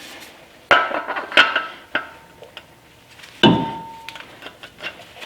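Wheel hub being knocked onto the axle splines with hammer blows: four sharp metallic strikes with smaller clinks between, the last one ringing briefly.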